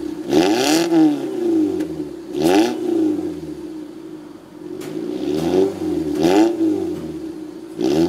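Mitsubishi Airtrek non-turbo four-cylinder exhaust: the engine idles and is blipped four times, each rev rising and falling back to idle.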